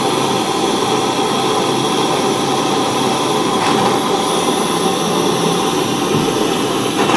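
Soldering flame burning with a steady rushing noise while heating an eyeglass frame part for silver soldering.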